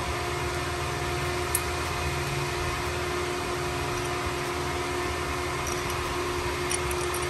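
360 stroker V8 engine idling steadily on its first start-up, with no revving.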